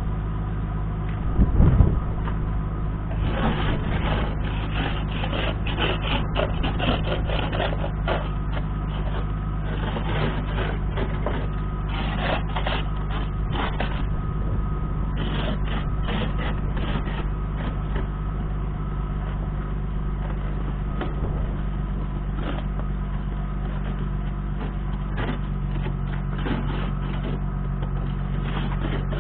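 Infiniti G37's 3.7-litre V6 idling steadily through a modified exhaust, one side a Cherry Bomb muffler and the other a Thrush in place of the stock resonators. There is a brief louder burst about a second and a half in, and scattered clicks over the first half.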